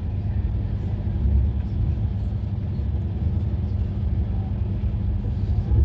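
Passenger train running: a steady low rumble that holds even throughout.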